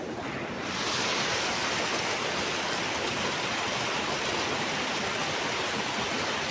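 River water rushing steadily. It grows louder about a second in and then holds even.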